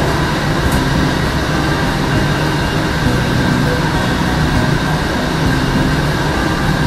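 Passenger train running along the line: a steady rumbling noise with a low hum.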